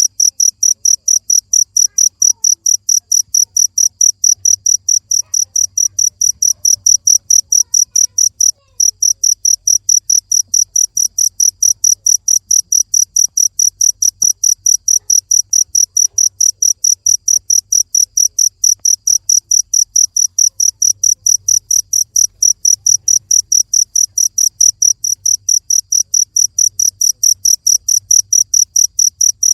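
A cricket chirping loudly and steadily in a fast, even, high-pitched pulse of about four to five chirps a second, with one brief pause partway through.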